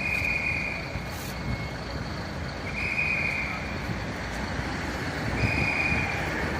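A vehicle's electronic warning beeper sounds a steady high-pitched beep about a second long, three times, repeating every two and a half to three seconds over the steady noise of running engines.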